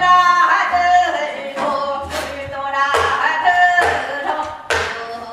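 Gyeonggi-style hwimori japga folk singing, with held, ornamented notes and sharp percussive strokes about once a second.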